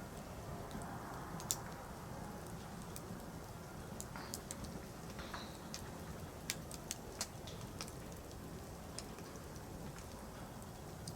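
Firewood burning in an outdoor fire: irregular sharp crackles and pops over a steady low rush of the flames, with a louder pop about a second and a half in and a small cluster of pops about halfway through.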